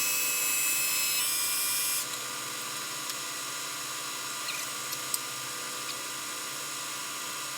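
Cincinnati milling machine's power-feed motor running on rapid traverse at half speed, a steady high-pitched electric whine over a hiss. The highest tones drop out about two seconds in, leaving a quieter hiss with a couple of faint ticks.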